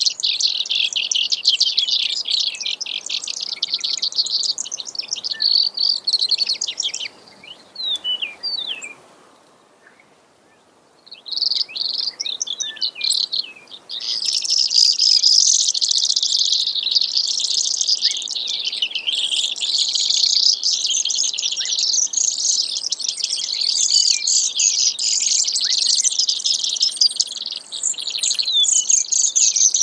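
Brewer's sparrow singing: long, rapid trills of high notes that run on for several seconds at a time. The song breaks off about a quarter of the way in, goes briefly quiet, then resumes and keeps going in long, dense runs.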